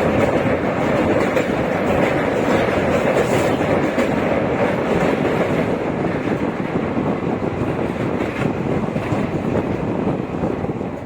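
18005 Samleshwari Express passenger train running along the track: a steady, loud rumble of its wheels and coaches on the rails.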